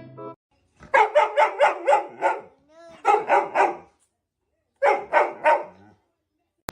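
Dog barking in three quick runs of short barks, about five a second, with brief pauses between the runs.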